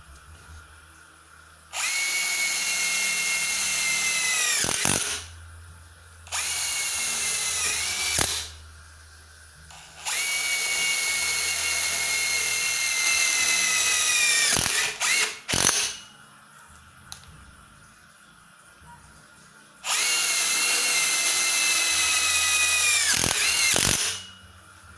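Stanley SBI201D2K 18V cordless impact driver run in four bursts of about two to four seconds, a high whine that winds down in pitch at the end of each, with two very short bursts in between.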